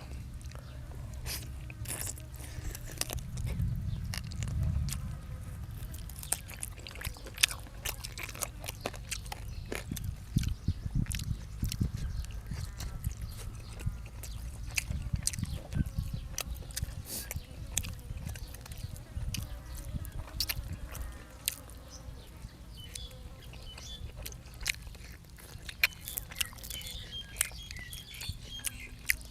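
A person chewing and crunching food close to the microphone: a run of many sharp crunches and wet chewing sounds over a steady low rumble.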